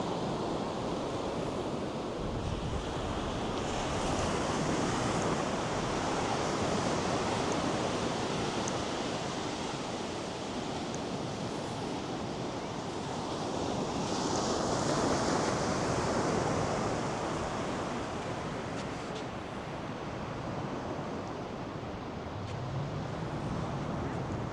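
North Sea surf breaking and washing up the beach, the rush of the waves swelling twice, about four seconds in and again near the middle.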